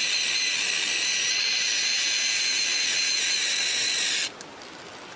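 A long, steady hiss with a thin whistling tone in it, unbroken by breaths, that cuts off abruptly about four seconds in.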